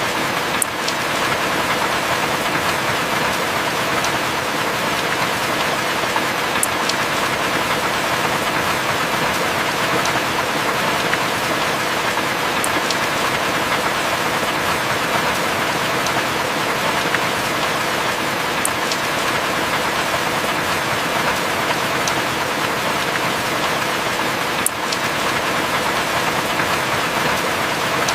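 Heavy rain falling steadily, an even hiss with no thunder, and a faint click about every six seconds.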